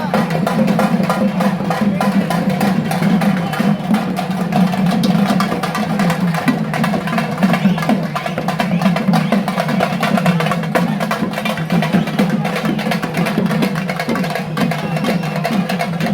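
Traditional drums played in a fast, continuous beat for the Pettai Thullal dance, with a crowd's voices mixed in.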